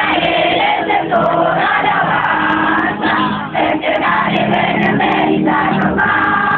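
Many voices singing together with music, with crowd noise mixed in.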